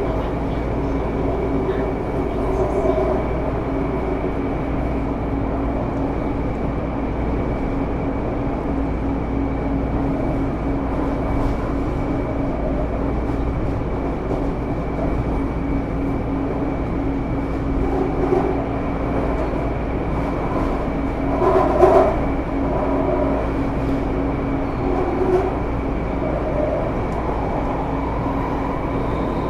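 Interior running noise of a Taipei Metro Series C301 train with IGBT-VVVF traction: a steady rumble of wheels and motors with a constant tone, at an even speed.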